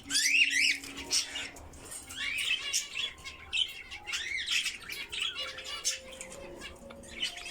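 Small pet parrots chirping and squawking, many short calls overlapping, busiest in the first second and again around three to four seconds in.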